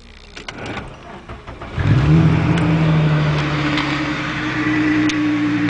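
Stroked 3.0-litre VR6 engine in a Mk2 VW GTI, newly swapped, catching about two seconds in after a few clicks and then running steadily.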